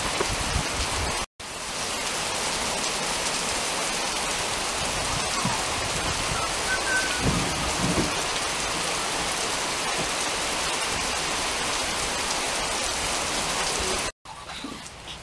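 Steady rain falling, an even, continuous hiss of drops.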